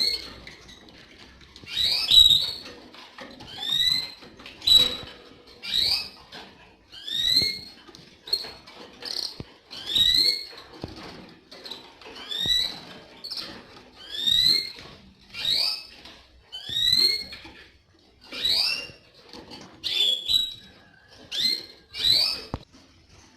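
Canary calling over and over: short rising chirps, about one a second.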